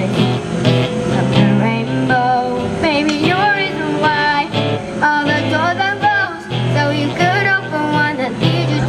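Female vocalist singing a pop song, with wavering held notes over instrumental accompaniment.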